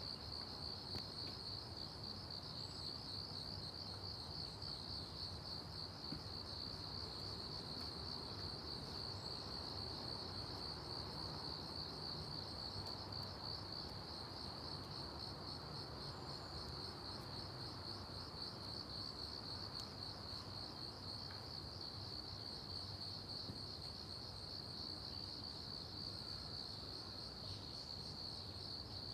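Crickets chirping in a steady, unbroken high trill, over a faint low background rumble.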